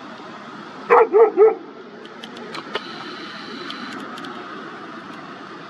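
A dog barking three times in quick succession about a second in, then a steady background hiss with a few faint clicks.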